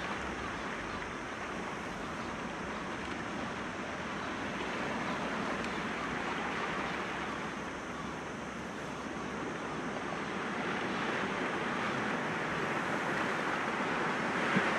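Sea waves breaking gently against rocks, a continuous wash of surf that swells and eases, growing louder again near the end.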